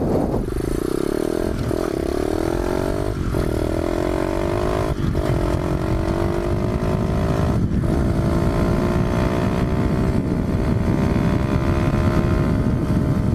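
A 125 cc pit bike engine accelerating hard at full throttle, rising in pitch with four brief dips at gear changes in the first eight seconds or so. It then pulls steadily in top gear, with the pitch slowly climbing toward top speed.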